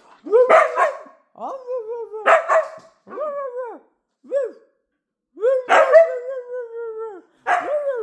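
A dog howling in a string of about six calls, several opening with a bark-like yip and then sliding down in pitch. The longest call, a little past halfway, lasts nearly two seconds.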